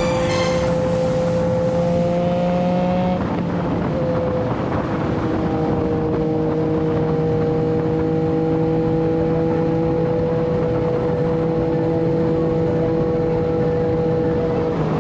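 Motorcycle engine running at a steady cruise while riding. The pitch rises slightly, drops about three seconds in as the revs fall or a gear changes, then holds steady, with road and wind noise underneath.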